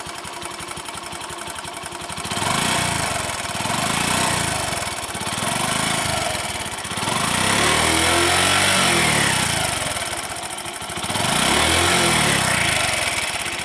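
2006 Bajaj Platina's 100 cc single-cylinder four-stroke engine idling, then revved up and down several times, the longest rev held for about three seconds near the middle. The sound is healthy and close to a new bike's, with no silencer fault.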